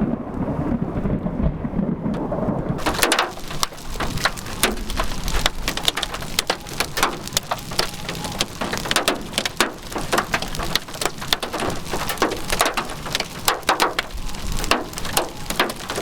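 Heavy rain pelting a vehicle in dense, crackling drops, setting in suddenly about three seconds in. A low rumble comes before it.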